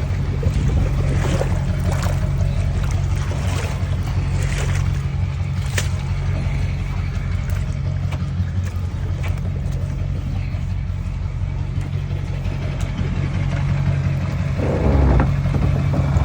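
Motorboat engine running steadily under way, with a continuous low hum under the rush of water. It swells louder about fifteen seconds in.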